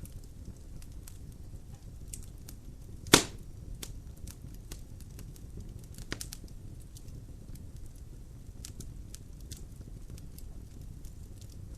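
Logs burning in a fireplace, crackling with scattered small snaps over a low steady rush of the fire. One loud, sharp pop about three seconds in and a smaller pop about six seconds in.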